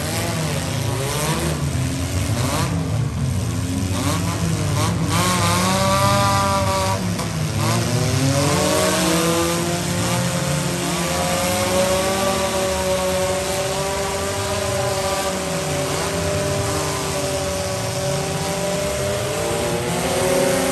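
Engines of several demolition derby compact cars revving up and down at once. From about halfway through, one engine holds a steadier pitch.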